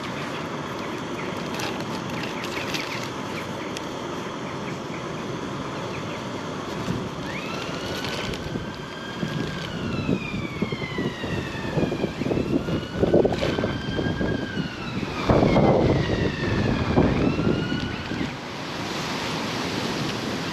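Distant emergency-vehicle siren wailing, its pitch rising and falling several times, over a steady hiss, with a few louder bursts of noise partway through.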